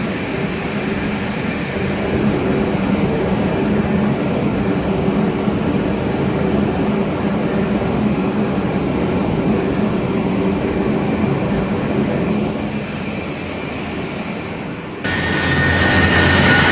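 Vertical turning lathe running: a steady mechanical hum with a low drone. About 15 seconds in it changes abruptly to a louder sound with a high steady whine.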